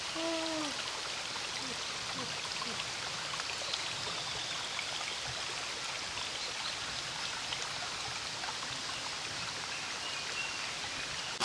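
Steady outdoor wash of water noise, like a flowing stream or falling rain. There is a brief falling call near the start.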